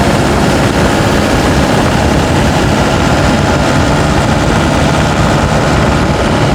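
Turbocharged pickup truck's engine running steadily under load while climbing a grade, mixed with a constant haze of road and wind noise.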